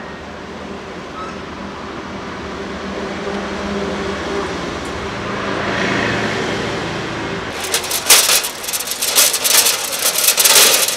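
A motor vehicle's engine running with a steady hum that swells and fades over several seconds, then, about seven and a half seconds in, a loud, rapid, irregular crackling clatter takes over.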